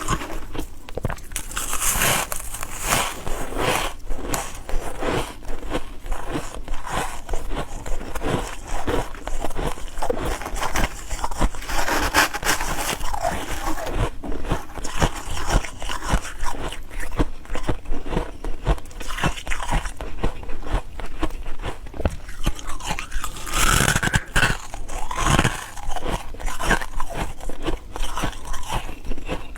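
Ice cubes being bitten and chewed close up, a dense run of irregular crunches.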